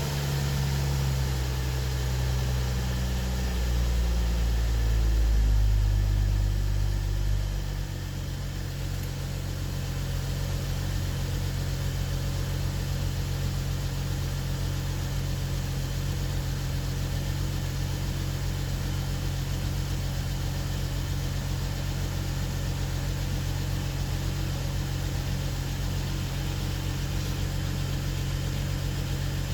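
BMW N55 turbocharged 3.0-litre inline-six running on its first start after an engine swap: a raised idle that steps down about eight seconds in, then settles into a steady idle.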